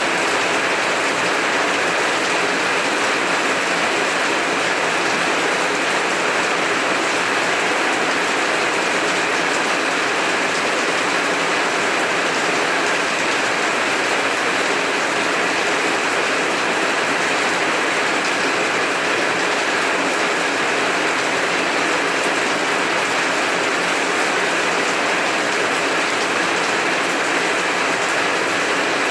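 Heavy rain falling steadily, a dense, even patter of drops on the ground and surfaces, with no change in strength.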